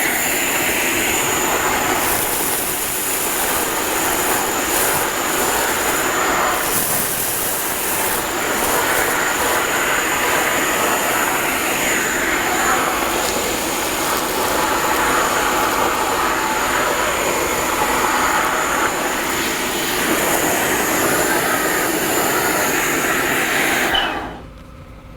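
Compressed-air-powered industrial wet-dry vacuum running: a loud, steady rushing hiss with a thin high whistle, which cuts off abruptly near the end.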